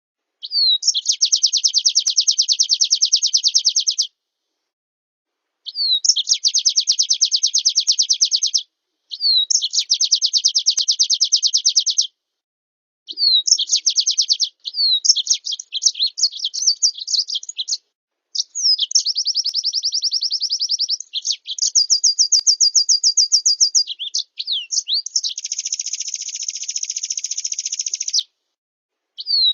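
Recorded songbird tutor song for white-eyes, with canary and blackthroat-style fills: a string of fast, high trilled phrases of a few seconds each, broken by short clean gaps. The last phrase is buzzier.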